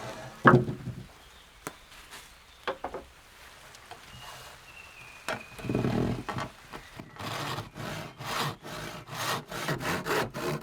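Wood being handled, with a loud thump about half a second in and scattered knocks. From about seven seconds, a hand saw cuts through wood in quick back-and-forth strokes, about three a second.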